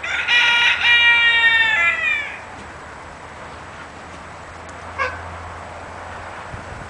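A rooster crowing once, a call of about two seconds that sags in pitch at the end, followed about five seconds in by a short single call.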